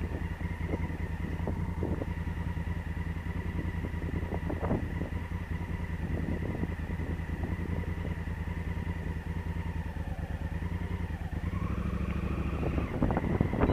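Honda Africa Twin CRF1000L's parallel-twin engine running steadily under way, rising in pitch near the end as it accelerates.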